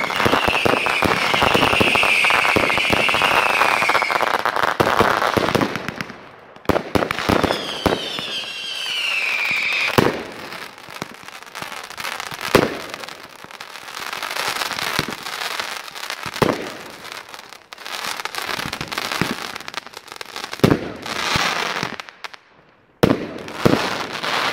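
Consumer fireworks going off: dense crackling with repeated falling whistles for the first five seconds or so, then another whistle and a run of separate sharp bangs a second or more apart.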